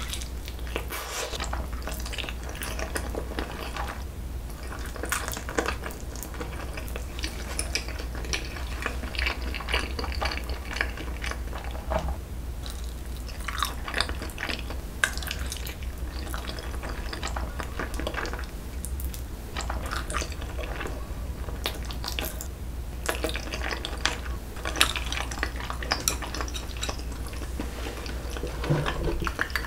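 Close-miked chewing of jokbal (braised pig's trotter): many short mouth clicks and smacks as the chewy meat is bitten and chewed, over a steady low hum.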